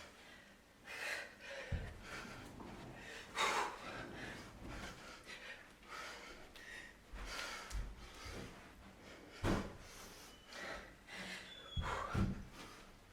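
Heavy, sharp breathing, one breath about every second or two, with a few short low thumps in between.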